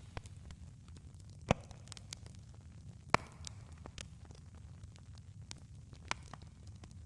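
Campfire crackling, with scattered sharp pops over a low steady rumble. Two louder pops come about a second and a half and about three seconds in.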